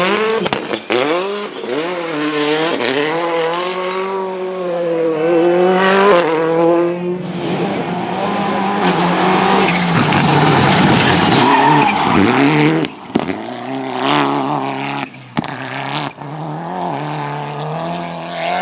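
Rally car engine revving hard, its pitch climbing and dropping again and again as it changes gear and lifts off, with a few abrupt cuts in the throttle near the end. Tyres skid on the loose surface partway through.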